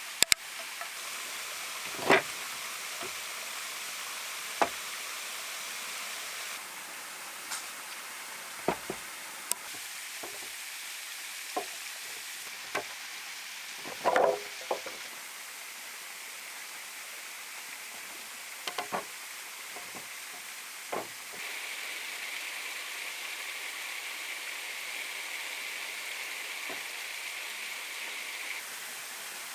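Scattered sharp knocks and taps, a dozen or so at irregular intervals and the strongest about two seconds in and about fourteen seconds in, over a steady hiss.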